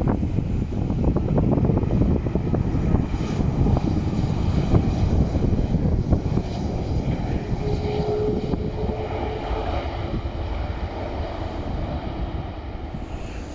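Airliner engines running loud, with wind buffeting the phone's microphone; a faint whine sits under the noise midway and the engine noise slowly eases toward the end.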